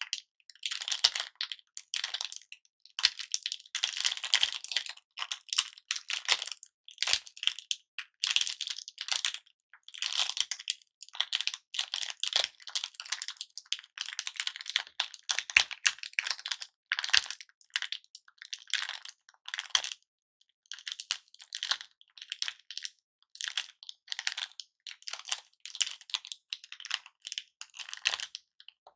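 Lollipops being handled close to the microphone, making irregular short bursts of crisp crackling and clicking with brief pauses between them.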